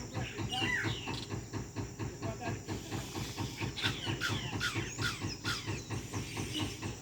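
Yellow-rumped caciques (japim) calling from their nesting tree: short downward-sliding whistled notes, a few about a second in and a quicker run between four and five and a half seconds. Beneath them runs a fast, even ticking with a low hum.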